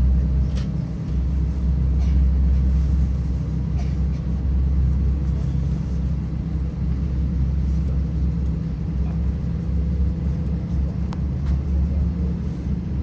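Steady low rumble in the passenger cabin of an Airbus A320-232 with its IAE V2533-A5 engines running, heard from a window seat.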